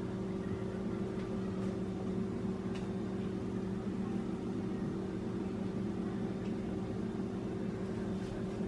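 A steady low mechanical hum at one constant pitch.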